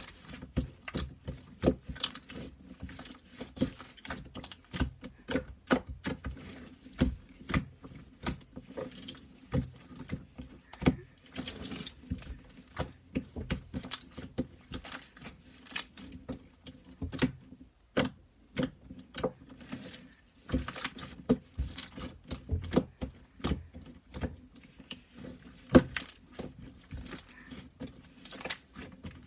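Purple slime being squished and pressed by hand, making many irregular sticky clicks and pops, with a brief lull just past the middle.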